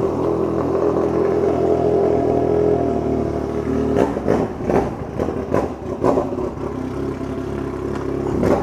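Yamaha MT-09's three-cylinder engine idling steadily, then revved unevenly with repeated throttle blips from about four seconds in.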